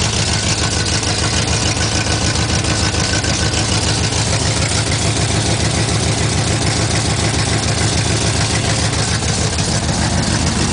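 Built 350 V8 in a 1970 Buick Skylark GS, fitted with headers, a racing cam and dual exhaust, idling steadily with a rhythmic exhaust pulse.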